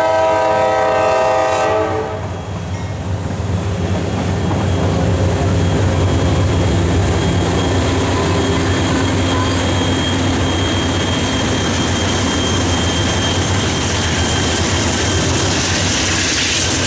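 Freight-train horn sounding a chord that cuts off about two seconds in. Then the low, steady running of the lead Norfolk Southern GE diesel locomotives approaching, growing fuller near the end as they come by.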